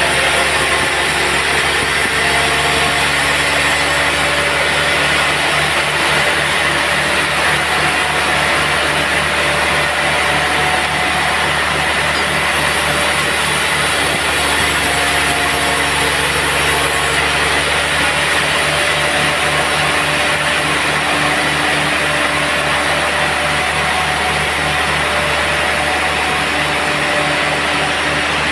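Sawmill running steadily through teak logs, with its engine and saw making a constant mechanical drone that pulses quickly and evenly.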